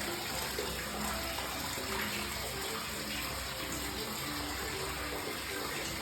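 Steady rush of water in a baby spa tub.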